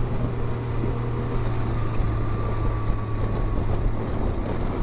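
Can-Am Ryker Rally's engine running steadily at road speed, with wind and road noise.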